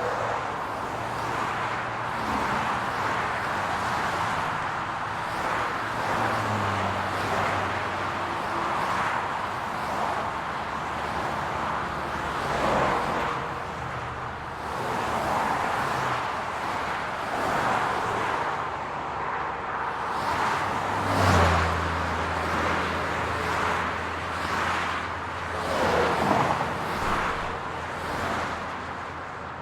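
Steady city road traffic: a continuous wash of tyre and road noise with the low hum of car engines, as cars pass one after another. The loudest pass comes about 21 seconds in, where a deep engine hum also sets in, and another swells around 26 seconds.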